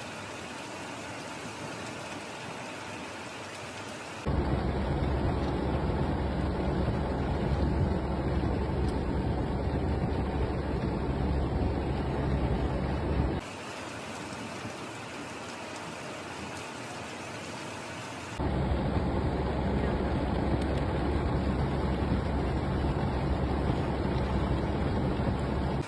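Heavy rain and running floodwater making a steady rushing noise. It switches abruptly between a quieter hiss and a louder, deeper rush about 4 seconds in, again about halfway through, and a few seconds later.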